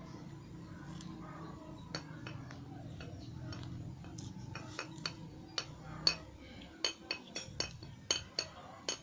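Light metallic clinks and taps of hand tools being handled and set down, irregular and growing more frequent from about five seconds in, over a low hum that fades out about six seconds in.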